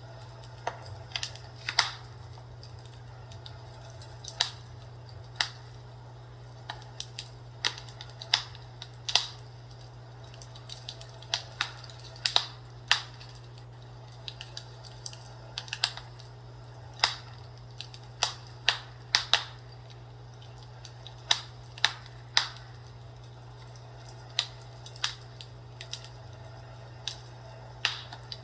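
Fireplace crackling: irregular sharp pops and snaps, one or two a second, over a steady low hum.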